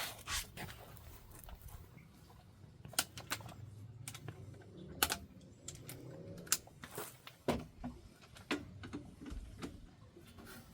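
Irregular sharp clicks and knocks of hand tools being handled and worked, scattered a second or so apart, over a faint low rumble.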